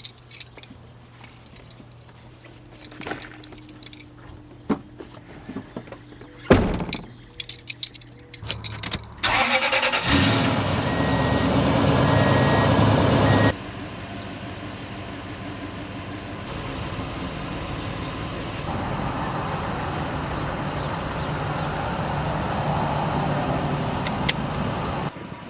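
A car: small clicks and one loud thump in the first half, then loud engine noise about ten seconds in that drops after a few seconds to a steady driving noise.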